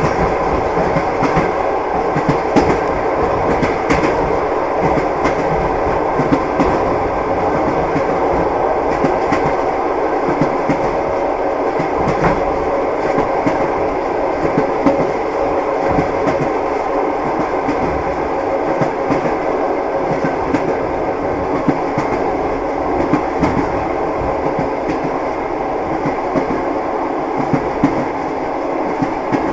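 Moving train heard from inside the passenger car: a steady rumble of wheels on the rails with scattered clacks as the wheels pass over rail joints.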